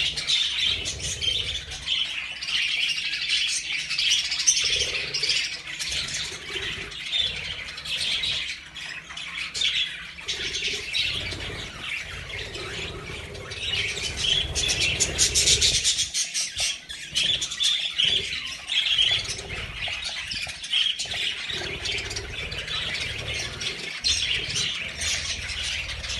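A large group of birds chirping and squawking all at once in a dense, continuous chatter.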